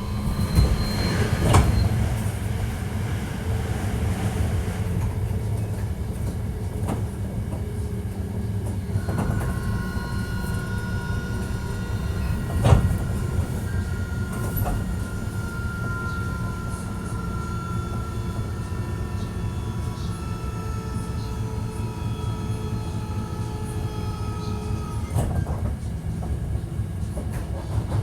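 Hankyu 1300 series electric train running, heard from inside the car: a steady low rumble, with wheels knocking over rail joints a few times and a thin high whine that falls slowly in pitch. The car is one that the title labels as having an abnormal noise.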